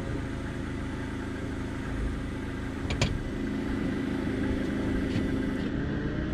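Forklift engine running steadily under load as it lifts, with one sharp clank about three seconds in.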